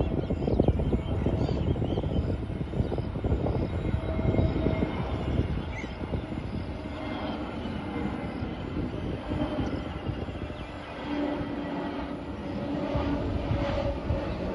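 Jet airliner engines running as the plane goes by. A loud rumble for about the first five seconds eases into a quieter steady engine sound with a thin high whine.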